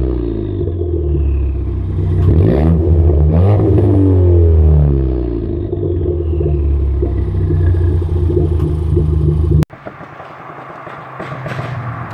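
Ford Fiesta ST Mk7's turbocharged 1.6-litre EcoBoost four-cylinder engine and exhaust: revs falling, then blipped up and back down twice, then held steady. Near the end it cuts abruptly to a quieter engine sound.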